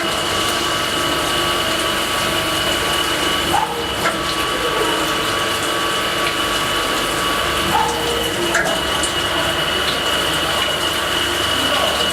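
CNC carbide-tip saw-blade grinder running steadily, with a constant high tone over a rush of liquid typical of its coolant flow. Pairs of short clicks come about every four seconds as it works through the teeth.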